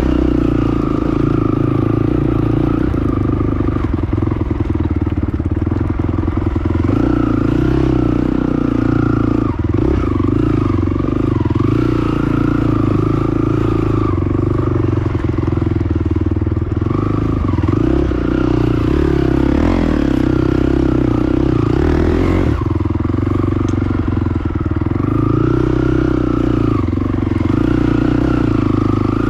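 Honda TRX450 ATV's single-cylinder four-stroke engine running steadily while riding, its pitch rising and falling a little with the throttle.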